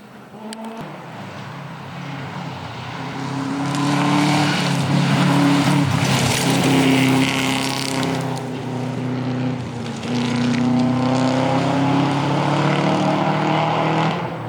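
Stage rally vehicle's engine at full throttle, its pitch climbing and dropping back with several gear changes, growing louder over the first few seconds as it approaches.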